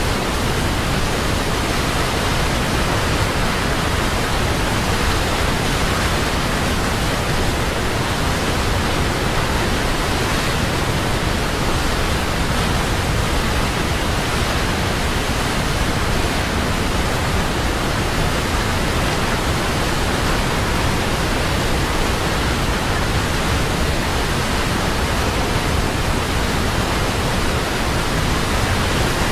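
Large waterfall: a steady, even rush of falling water that does not change.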